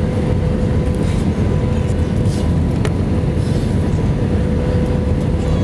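Steady cabin rumble of an Airbus A319-115 with its CFM56 engines running, heard from a window seat near the end of the flight, with a steady hum over the roar. A single sharp click about three seconds in.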